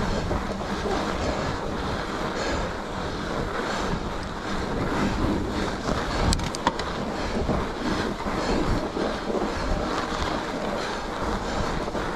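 Mountain bike riding over a groomed snow trail: a steady rush of tyres on snow mixed with wind noise on the microphone, with a few sharp clicks a little past halfway.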